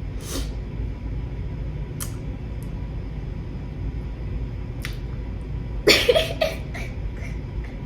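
Steady low room hum with a few scattered short clicks, and a brief cluster of small clicks with a short voiced sound about six seconds in.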